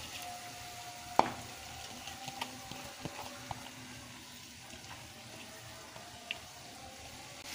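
Damp moong dal sizzling steadily in a frying pan of hot spice paste as it is poured in, with a sharp knock about a second in and a few light clicks of the bowl against the pan.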